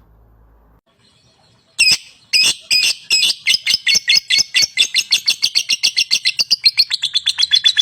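Lovebird chirping: after a quiet start, a fast run of sharp, high chirps begins about two seconds in and speeds up as it goes.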